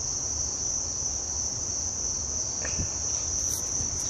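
Insects trilling, a continuous high-pitched drone that holds steady, with a low rumble beneath.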